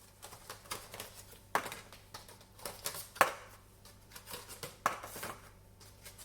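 Meal prep containers and wraps being handled on a counter: irregular clicks, knocks and rustles, with one sharper knock about three seconds in.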